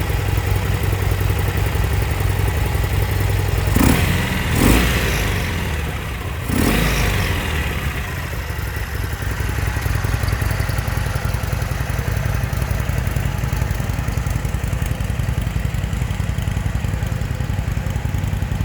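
Harley-Davidson Sportster 1200 Custom's air-cooled V-twin idling, with the throttle blipped three times in quick succession about four to seven seconds in, each rev falling back to a steady idle.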